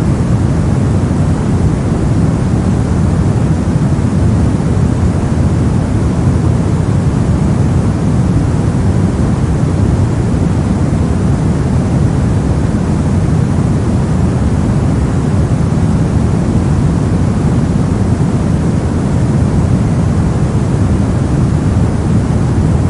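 Brown noise: a steady, loud random hiss weighted heavily toward the low end, giving a deep, even rumble with no change or events.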